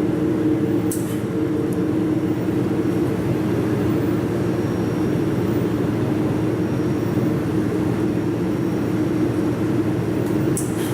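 Steady mechanical hum of a running machine, with a low drone, and a brief sharp click near the end.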